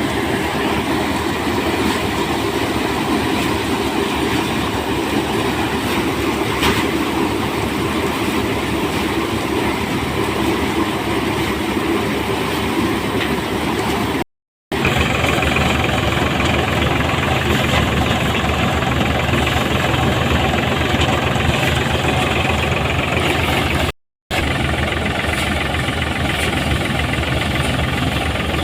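Tractor engine running steadily, broken twice by brief silences.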